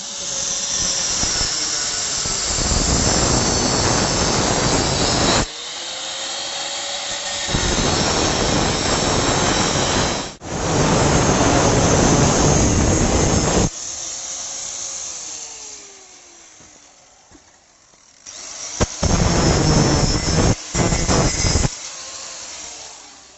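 Bajaj Pulsar 220F's single-cylinder engine revved hard through a loud aftermarket exhaust, in several clips cut together, the pitch rising and falling with the throttle. About two-thirds through, the revs fall away toward idle, then a few short, sharp throttle blips follow.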